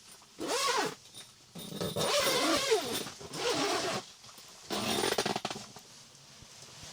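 A dog vocalizing in several short calls, each rising and falling in pitch.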